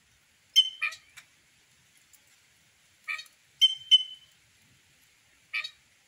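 Birds at a feeding spot calling: about six short, buzzy calls rich in overtones, a pair near the start, three more around the middle and a single one near the end, two of them drawing out a brief steady note.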